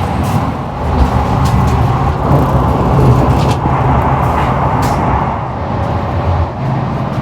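Iryo Frecciarossa 1000 high-speed train running, heard from inside: a steady low rumble and rushing noise with a few faint clicks.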